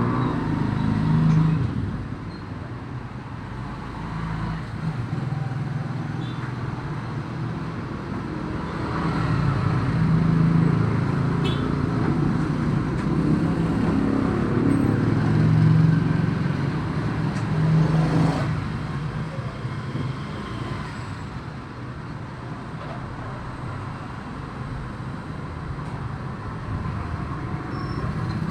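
Motor vehicle engine noise, a steady low hum that swells and fades several times.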